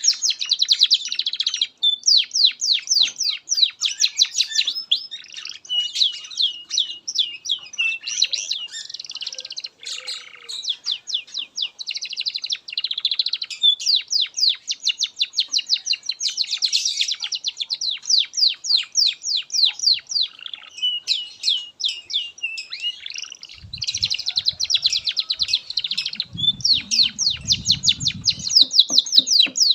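Domestic canary singing a long, continuous song of rapid trills and quick repeated notes. A low rumble sits under the song for a few seconds near the end.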